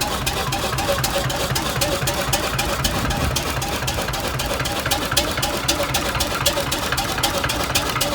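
An engine running steadily at idle, with a regular sharp clicking beat of about six clicks a second.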